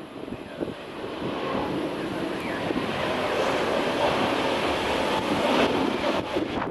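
Jet engine noise of a China Airlines Airbus A321neo (A321-271NX) going by, a steady rushing roar that swells and is loudest about five seconds in.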